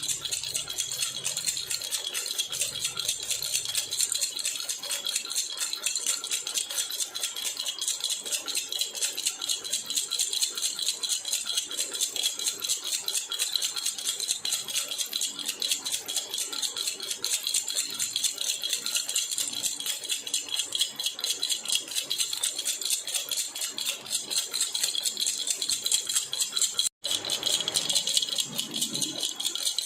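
Baby rattle (jhunjhuna) shaken continuously in a fast, even rattle with a bright, jingling tone. There is a split-second break near the end.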